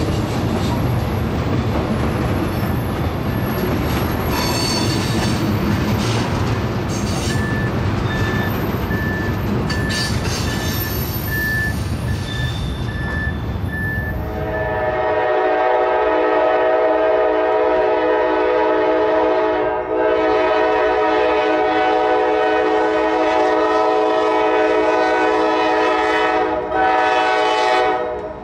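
Freight cars rolling past with a heavy rumble of wheels and clicking over rail joints. About halfway through, this gives way to a Norfolk Southern diesel locomotive's multi-note horn sounding the grade-crossing signal: long, long, short, then another long.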